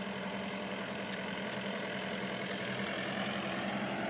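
A vehicle's engine running steadily, heard from inside the vehicle while riding: a steady hum with a few faint clicks.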